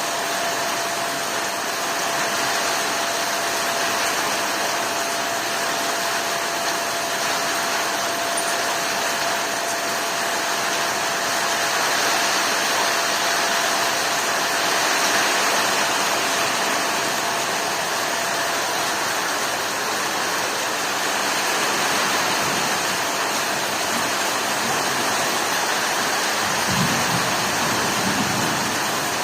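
Heavy rain falling steadily in a storm, an even hiss with no breaks. A faint steady tone sits under it and stops about two-thirds of the way through.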